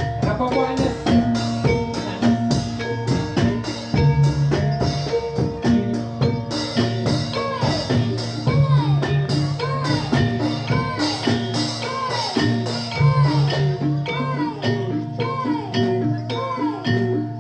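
Gamelan ensemble playing Jathilan dance accompaniment: struck metallophones and drums keep a steady, even beat. From about halfway through, a sliding note rises and falls roughly once a second over the music.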